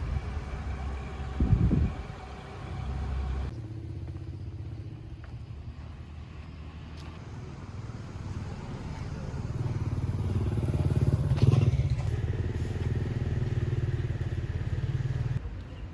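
A vehicle engine running with a steady low hum, growing louder from about ten seconds in and cutting off abruptly near the end. A short loud thump comes about two seconds in.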